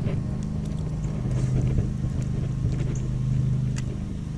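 A boat motor running steadily with a low, even hum, with a few faint clicks over it.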